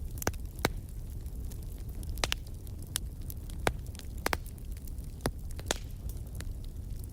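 Wood campfire crackling, with sharp snaps and pops at irregular moments over a low steady rumble.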